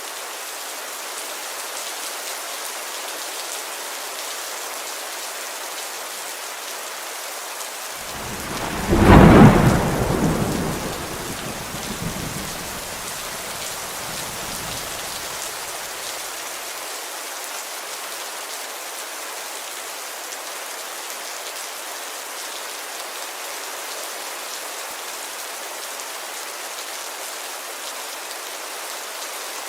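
Steady rain falling on a window, with a thunderclap breaking in about eight seconds in and rumbling away over the next several seconds.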